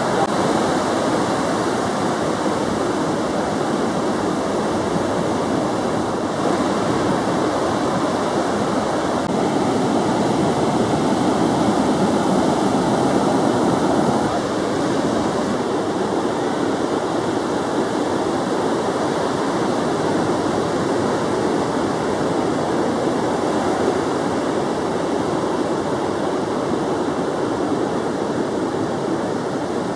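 Ocean surf breaking, a steady rush of waves.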